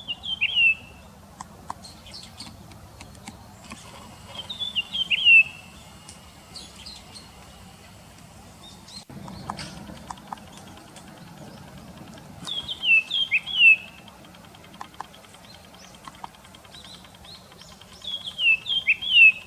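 Japanese grosbeak calling: a short phrase of a few quick falling notes, given four times a few seconds apart.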